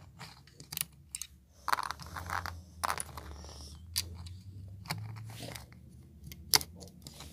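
Plastic Lego bricks clicking and rattling as they are handled, with a series of sharp separate clicks and a few short clattering stretches.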